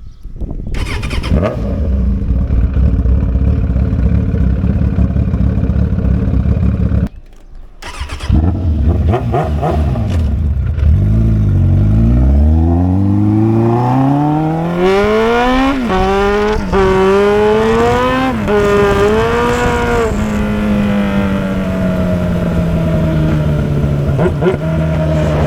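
Motorcycle engine over a low rumble, then accelerating through the gears: the pitch climbs and dips briefly three times at the upshifts, then falls slowly as the bike eases off.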